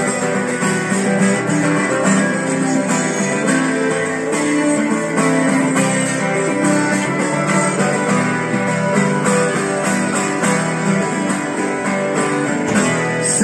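Guitar strumming chords steadily in an instrumental passage of a song, with no singing.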